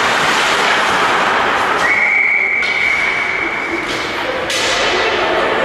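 Ice hockey game sounds: a steady wash of rink noise, with a single steady high tone held for about two seconds in the middle.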